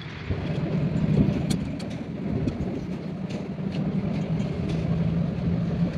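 A steady low engine hum, with scattered short sharp clicks and knocks over it.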